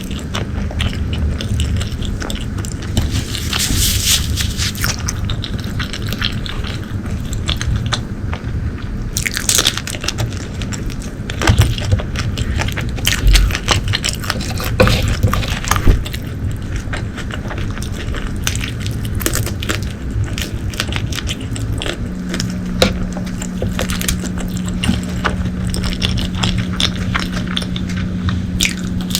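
Close-miked eating: steady chewing and biting with irregular wet clicks and crunches, and a few sharper snaps in the middle.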